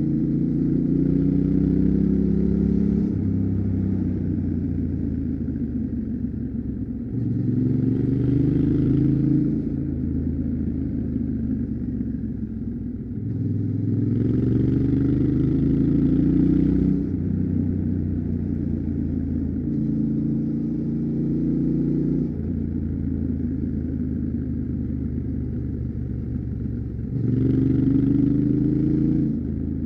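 Yamaha Ténéré 700's parallel-twin engine on its stock exhaust while riding. It climbs in pitch and gets louder five times, each pull about two to three seconds long, and drops back in pitch between the pulls.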